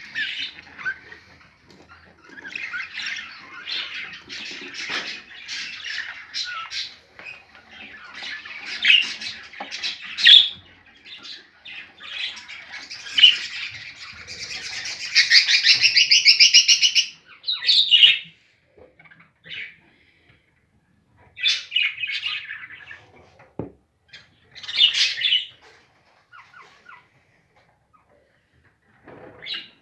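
Budgerigars chirping and chattering in bursts, with a long dense run of rapid calls about halfway through and a few pauses near the end.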